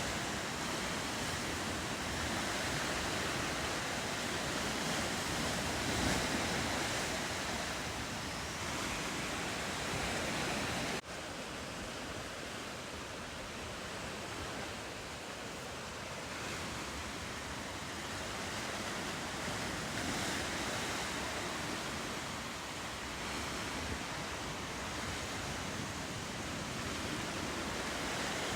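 Steady rush of ocean surf and waves, swelling and easing slowly. It drops out for an instant about eleven seconds in and then runs a little quieter.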